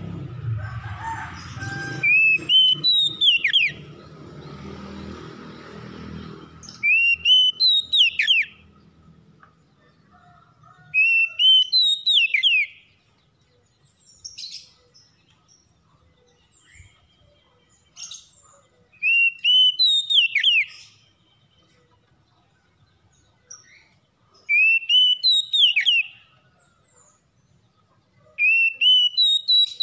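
Oriental magpie-robin (kacer) singing a loud whistled phrase that rises and then drops steeply, repeated six times every few seconds, with fainter chirps between. A low rumbling noise over the first seven seconds or so.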